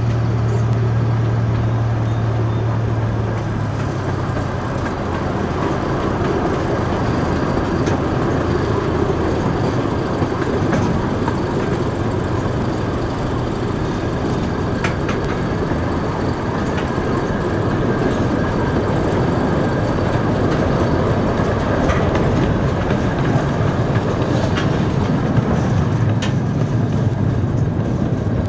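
Ridable miniature train rolling along its narrow-gauge track: a steady rumble of wheels on rail, with a low hum in the first few seconds that fades out and a few sharp clicks later on.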